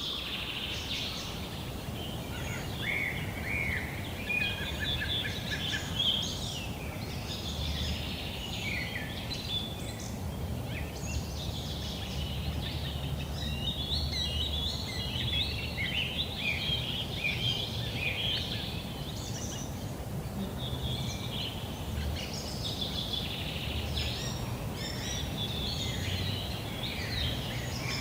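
Green sandpiper calling: a continuous run of short, clear whistles and quick trills, over a steady low rumble.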